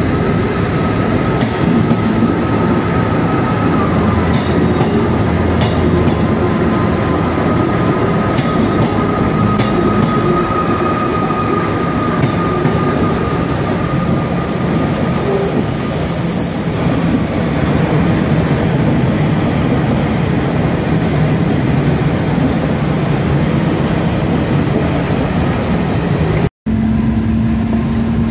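Passenger trains running through the station: the steady rumble and wheel noise of a Class 158 diesel unit and a Class 397 electric unit, with a thin, steady high squeal that fades out after about twelve seconds. Near the end the sound cuts to the steady engine note of a Class 56 diesel locomotive.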